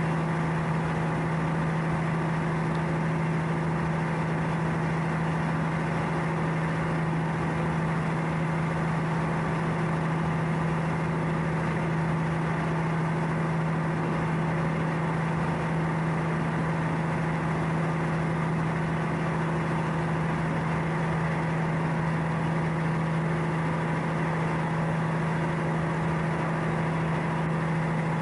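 A ship's engine running steadily: an unchanging drone with a strong low hum.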